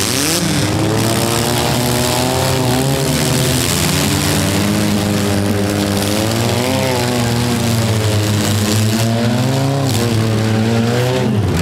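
Engines of several four-cylinder demolition derby cars revving together, their pitches rising and falling as the cars accelerate and manoeuvre in the arena.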